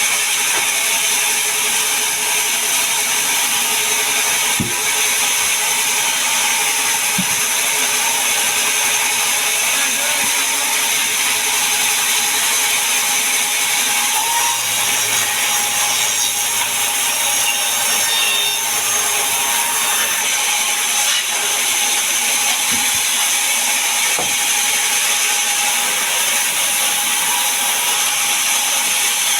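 Sawmill saw cutting through a large mahogany log: a steady, loud, high-pitched sawing noise, with a few short knocks.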